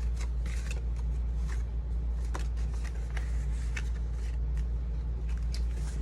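Paper and card stock being handled: scattered light rustles and small taps, over a steady low hum.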